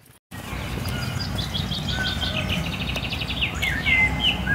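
Songbirds singing: a rapid run of short high notes stepping down in pitch, then separate whistled phrases near the end, over a steady low rumble.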